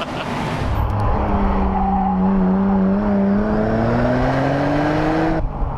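Twin-turbocharged car engine accelerating hard, heard from inside the cabin. Its note climbs steadily in pitch, then cuts off sharply shortly before the end.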